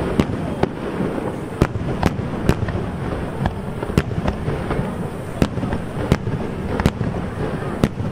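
Aerial firework shells bursting in a rapid, irregular series of sharp bangs, about one or two a second, over a steady background din.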